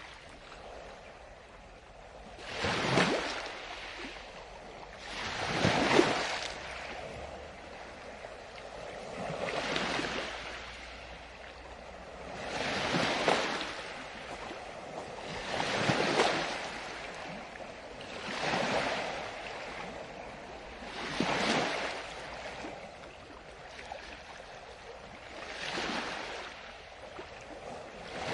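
Ocean waves breaking and washing up a beach, a hissing surge rising and falling back about every three seconds.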